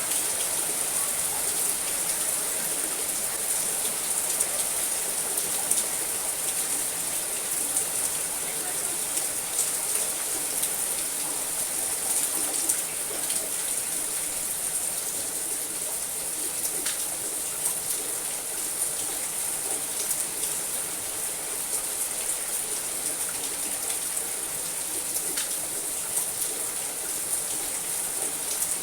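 Steady rain falling on a house roof, a dense even hiss with scattered individual drop ticks.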